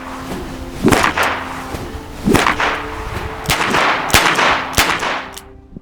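Loud rustling and buffeting bursts on the microphone, about five of them a second or so apart, with faint background music underneath.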